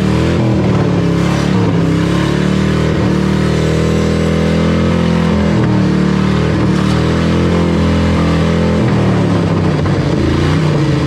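Ford Crown Victoria's 4.6-litre V8 running loudly at raised revs, with the revs wavering and dipping briefly a few times. It is still running after having junk fed into its intake.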